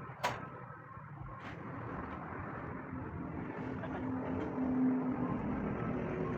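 A sharp knock about a quarter second in, then an engine running steadily and growing louder, with a low steady hum that is strongest about two-thirds of the way through.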